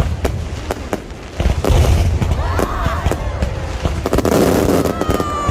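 Aerial fireworks display going off: rapid sharp cracks and bangs over heavy low booms, getting louder about a second and a half in.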